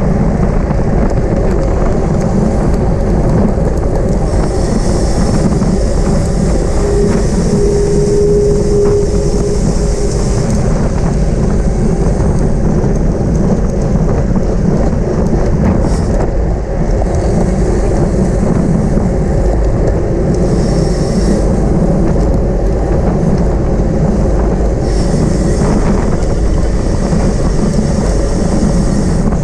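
Steady, loud wind rumble on the microphone of a camera riding along at race speed on a bicycle, with tyre and road noise underneath.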